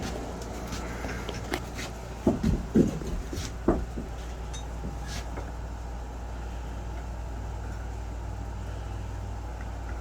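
A steady low hum with a few knocks, clustered between about two and four seconds in.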